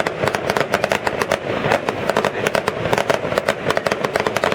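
Fireworks crackling: a dense, rapid run of sharp pops, many a second, keeping on without a break.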